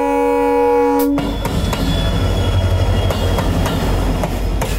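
A train horn sounding one steady multi-note chord that stops about a second in, followed by a train passing on the track, its wheels rumbling and clicking over the rails.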